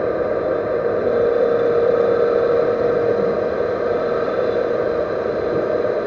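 Metal lathe running steadily with a strong hum and a fainter high whine, turning a servo motor shaft.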